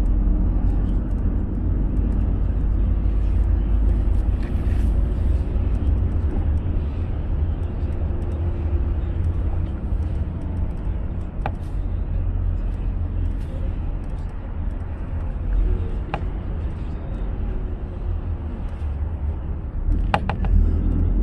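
A car driving on an expressway: a steady low rumble of road and engine noise, with a few short, sharp clicks about halfway through and near the end.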